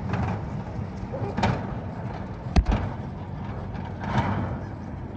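A vehicle engine idling with a low, steady hum, broken by one sharp knock about two and a half seconds in.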